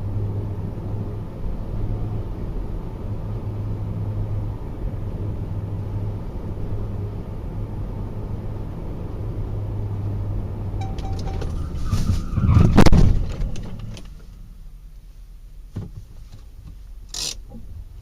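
Steady drone of a car's engine and tyres on the road, broken about twelve seconds in by a loud crash lasting about a second. The drone then drops away, and a few sharp knocks follow.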